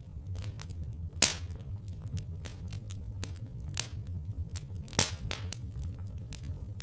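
Wood fire crackling, with irregular sharp pops and snaps, a few louder ones about a second, four and five seconds in, over a steady low rumble.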